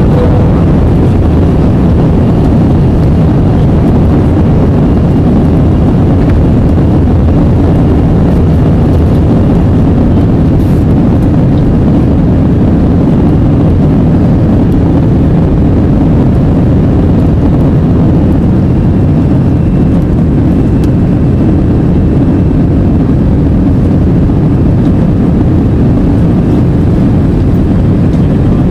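Airbus A320 jet engines at take-off power: a steady, loud low rumble of engine noise and rushing air with no change in pitch.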